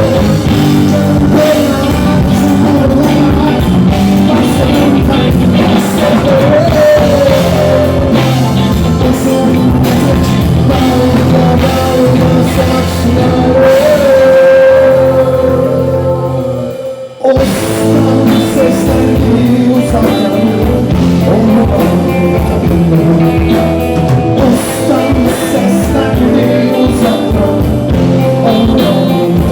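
Live rock band playing with a singer, electric guitar and drum kit. About halfway through there is a long held note, then the band cuts out for a moment and crashes back in.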